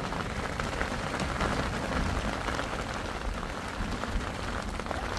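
Steady rain falling, with many individual drops heard striking among a continuous hiss.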